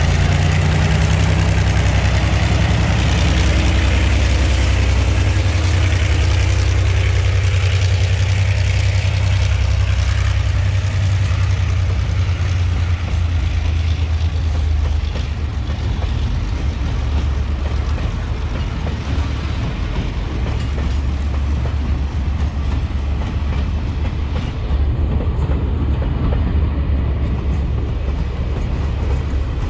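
Diesel freight train pulling away, hauled by EMD diesel-electric locomotives: a low steady engine drone that eases about halfway through, leaving the steady rumble of freight wagons rolling past on the rails.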